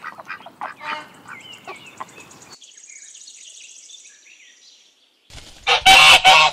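A duck quacking in a quick series of calls for the first couple of seconds, then faint chirping, then a goose honking loudly from about five and a half seconds in.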